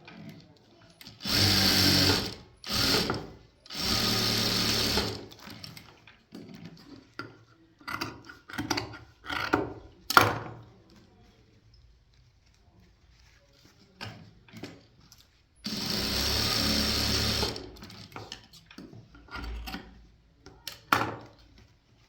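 Sewing machine running in short bursts of one to two seconds, three close together near the start and one more past the middle, with clicks and knocks from handling the fabric and machine in between.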